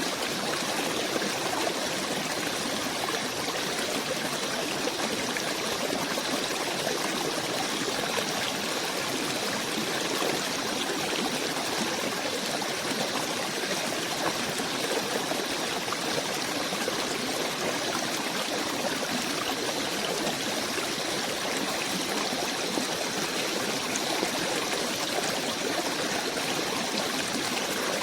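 A small stream running steadily, an even rush of water that does not change.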